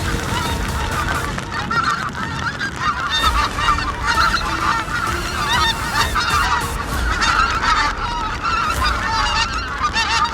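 A flock of pink-footed geese calling, many overlapping honks that get busier from about two seconds in, over wind rumble on the microphone.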